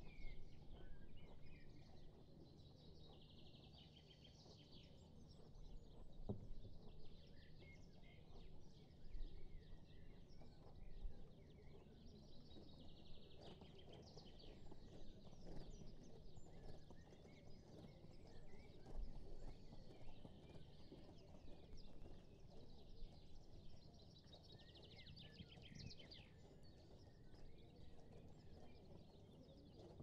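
Quiet outdoor ambience: songbirds singing and chirping again and again over a faint, low, steady rumble.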